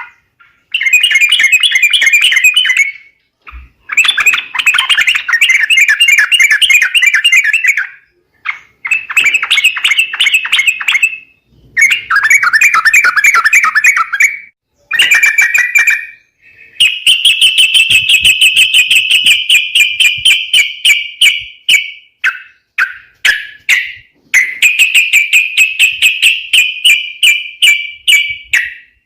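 Yellow-vented bulbul (trucukan) calling: loud bursts of rapid chattering notes a few seconds long, separated by short pauses, as used for a bird-lure recording.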